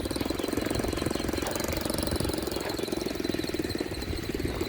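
Small motorbike engine running steadily, with a fast, even putter of firing pulses.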